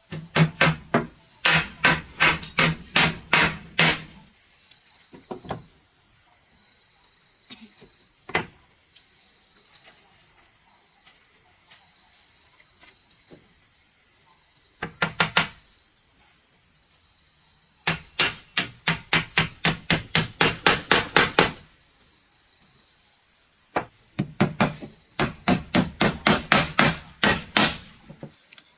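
Rapid hammer blows on wood, about three or four strikes a second, coming in several runs with short pauses between; the struck board rings with a low hollow tone under each blow.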